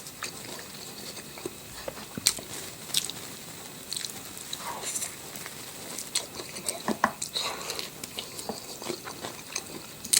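A person eating: chewing and biting food, with scattered short clicks of mouth and food sounds.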